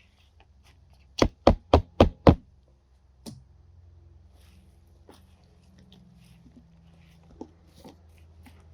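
Five quick, hard knocks in a row, about four a second, then a single fainter knock about a second later.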